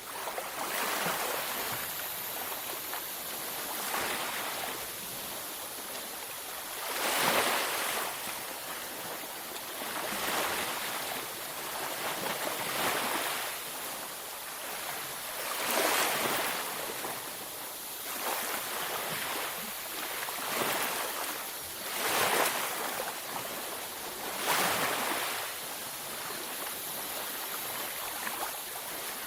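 Beach waves breaking and washing up the shore, a steady hiss of surf with a louder surge every two to four seconds.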